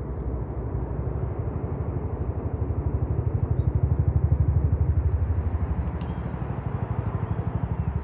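Campfire with a few faint sharp crackles over a louder low rumble that pulses quickly, about ten times a second. A couple of brief bird chirps come near the middle and near the end.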